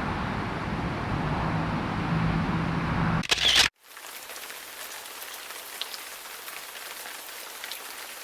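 Steady rain and wind noise buffeting the microphone. About three seconds in, a brief loud handling rustle is followed by an abrupt cut to a quieter hiss of light rain with a few faint drips.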